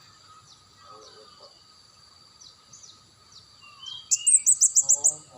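A small songbird calling: faint scattered high chirps, then about four seconds in a loud, fast run of about eight sharp high notes lasting about a second. A steady thin high-pitched whine, like insects, runs underneath.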